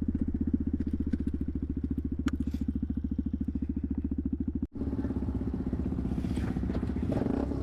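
Small single-cylinder motorcycle engine, a Honda Grom's, running with an even, fast exhaust beat. The sound drops out for an instant about two-thirds through, then the engine carries on.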